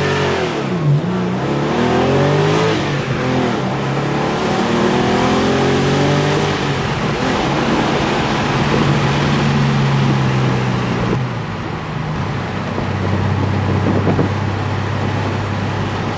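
Porsche 993 Carrera's air-cooled flat-six, breathing through a Fabspeed Maxflo muffler exhaust, heard from inside the car accelerating hard through the gears. The engine note climbs in several rising sweeps broken by gear shifts, then settles to a steadier, lower drone near the end.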